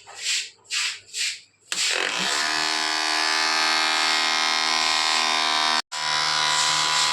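Four short swishing noises, then a small 12-volt DC motor switches on about two seconds in and runs with a steady, high electric buzz, dropping out for an instant near the end.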